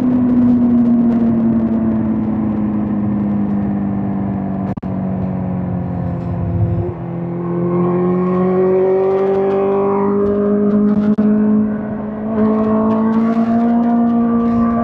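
2005 Suzuki GSX-R1000 K5's inline-four engine under way. Its note falls steadily for about six seconds as the bike slows, then climbs again under acceleration, with a brief break about eleven seconds in before it rises once more.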